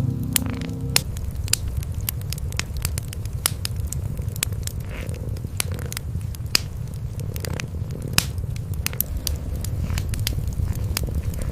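Wood fire crackling with frequent sharp pops, over a continuous low purring rumble from cats. A steady held tone stops about a second in.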